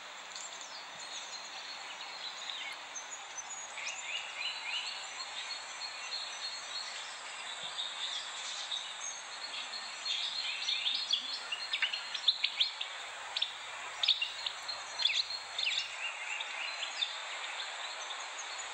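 Songbirds chirping and singing over a steady background hiss, the calls growing busier and louder about halfway through.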